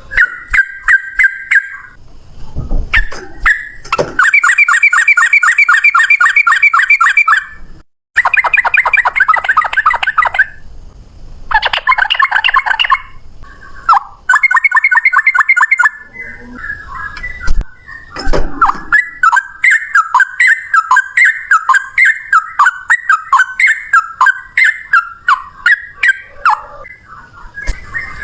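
Sooty-headed bulbul (trucukan) singing its rapid-fire 'ropel' song: fast runs of repeated clear notes lasting a few seconds each, broken by short pauses, giving way after about 18 seconds to a steadier series of separate notes, two to three a second. A few low thumps come in between.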